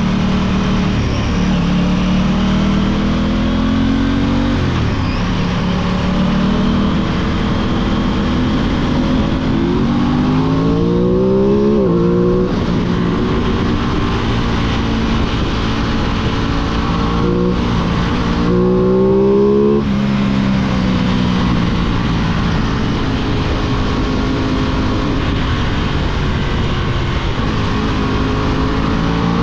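Aprilia 660 parallel-twin motorcycle engine running under way, opened up hard twice, about ten seconds in and again near twenty seconds. Each time the pitch climbs steeply and then drops. In between it holds a steady cruising note.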